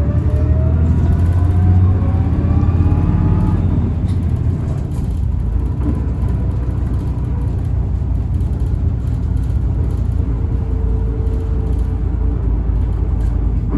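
City bus running, heard from inside: a heavy low rumble, with several whining tones rising together in pitch over the first few seconds as it speeds up, then steady running. The whine is the bus's abnormal motor noise.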